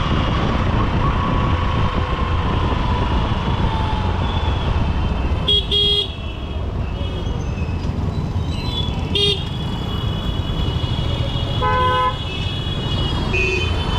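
Motorcycle ride in heavy city traffic: the Honda SP125's single-cylinder engine runs under a steady low rumble, while vehicle horns honk over it. There is a quick double beep about five and a half seconds in, another short beep about nine seconds in, and a longer horn blast near twelve seconds.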